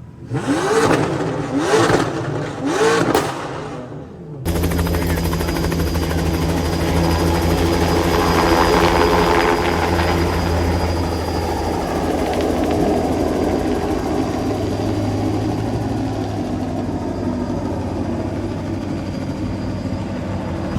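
An engine revved in three quick blips, each a short rising whine, then after a sudden cut a steady, deep engine drone.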